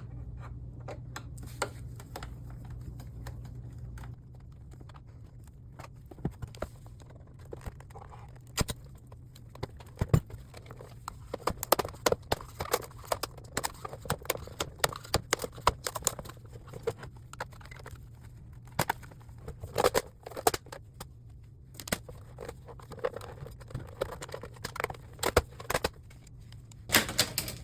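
A flat-bladed tool prying the plastic front bezel off an LCD monitor, with scattered irregular clicks, scrapes and snaps of plastic as the clips let go. A low steady hum runs underneath.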